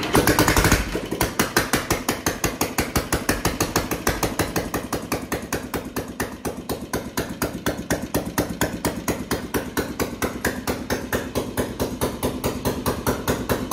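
Royal Enfield Bullet's single-cylinder four-stroke engine firing up with a loud burst and settling into its idle: an even, fast thump, several beats a second.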